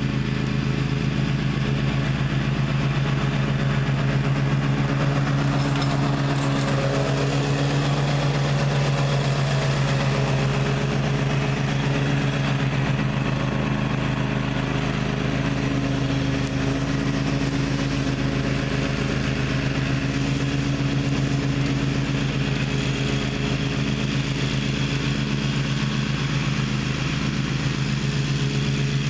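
Engine of a Gravely ZTx 42 zero-turn riding mower running steadily at a constant speed.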